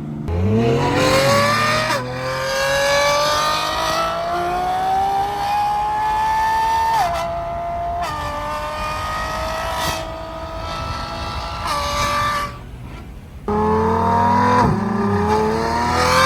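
Lamborghini Revuelto's V12 through a straight-through race exhaust, accelerating hard: its pitch climbs steadily and falls sharply at each of several upshifts. Near the end it briefly goes quieter, then pulls again.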